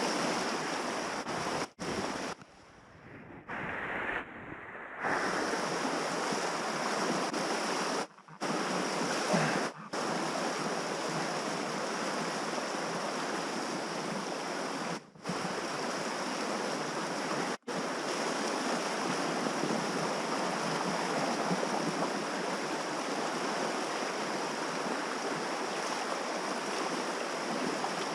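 Steady rush of river water in a rapid, with wind buffeting the microphone; the sound cuts out briefly several times in the first twenty seconds.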